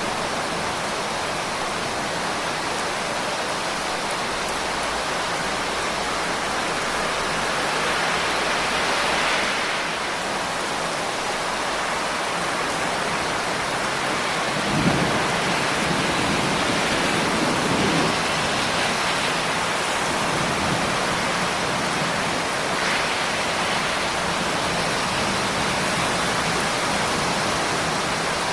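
Steady, even rain, with a sudden low rumble of thunder about halfway through that lingers for a few seconds.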